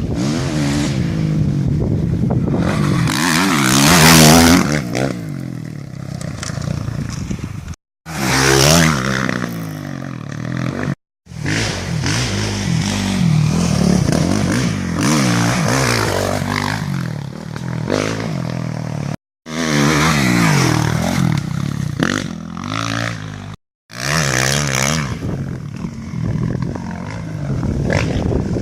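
Suzuki RM-Z450 four-stroke single-cylinder motocross bike engine revving up and falling off again and again as it is ridden through corners. It is loudest about four seconds in, and the sound breaks off abruptly four times between segments.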